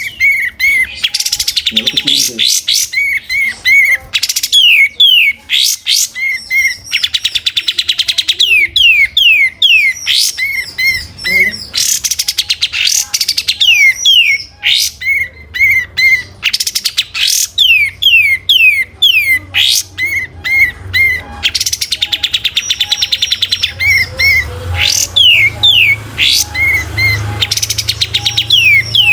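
A kapas tembak bulbul singing continuously and rapidly. Its song is a fast run of sharp whistled notes: quick falling sweeps, repeated short chips and buzzy trills with hardly a pause. A faint low hum lies underneath in the second half.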